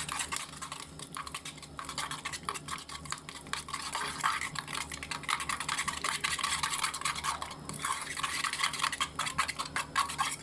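A utensil stirring cream into a flour-thickened milk mixture in a pan, a continuous run of small scrapes and clicks against the pan, over a faint low steady hum.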